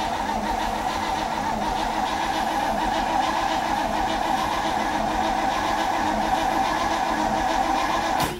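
Starter motor cranking the 1967 Firebird's 326 V8, which turns over steadily without firing after sitting unstarted for two years; the cranking stops just before the end.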